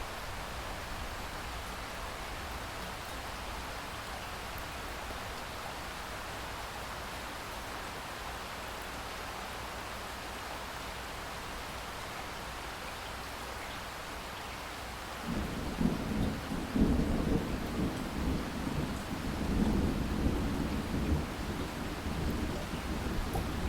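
Steady rain hissing. About fifteen seconds in, a long low rumble of thunder sets in and rolls on, swelling and fading, louder than the rain.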